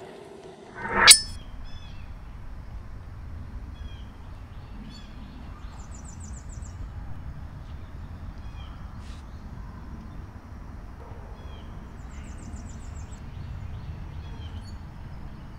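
Birds calling among mangroves: short chirps and, twice, a brief high trill, over a steady low background rumble. About a second in, a short loud rising swish.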